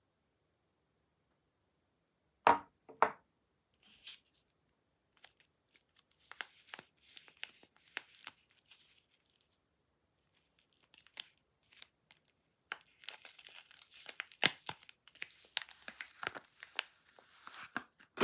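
Soap packaging being torn open and crinkled by hand, in crackly rustles that grow denser in the last few seconds. Two sharp knocks come about two and a half seconds in.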